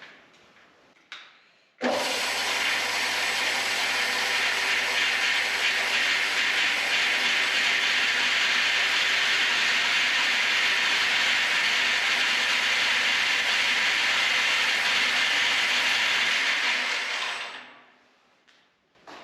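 Homemade bandsaw mill's 5.5 horsepower electric motor switched on about two seconds in, driving the blade steadily, then switched off near the end and running down over about a second. The washers in the blade guides rattle because they are not centred, which sounds worse than it is.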